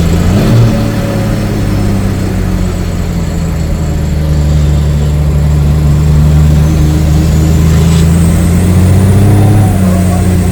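Heavy diesel truck engine running steadily at a low, even pitch, growing a little louder about halfway through.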